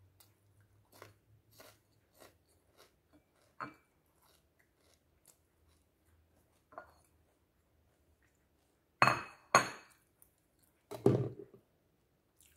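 Crunchy chewing of a seaweed crisp with pumpkin seeds: a run of small crisp crunches and clicks, about two a second. Near the end come a few much louder sharp clinks and knocks, with fingers working in a ceramic bowl and a plastic drink bottle being picked up.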